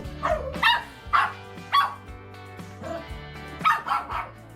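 A dog barking and yelping in short calls, four in the first two seconds and three more near the end, over background music.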